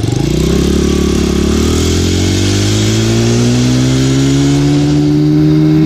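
Honda dirt bike engine accelerating, its pitch climbing over about two seconds and then holding steady at speed, with wind rushing over the microphone.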